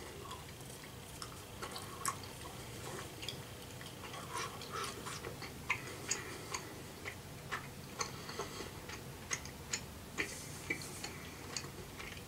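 Faint mouth clicks and smacks of a person chewing a chewy gummy candy, irregular, often about two a second.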